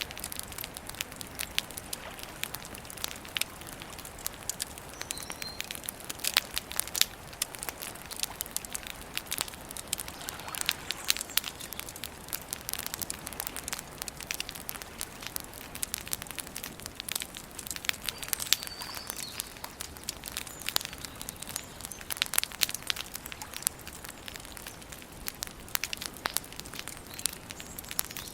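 Wood campfire burning, with dense, irregular crackles and pops over a steady soft hiss.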